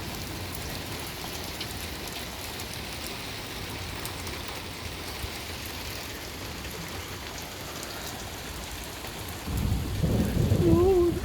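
Steady heavy rain, then a low rumble of thunder rises about three-quarters of the way through and is loudest near the end.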